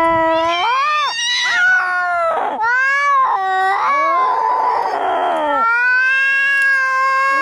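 Angry cats yowling in a fight: long, drawn-out wailing calls that bend up and down in pitch, with a hiss about four seconds in.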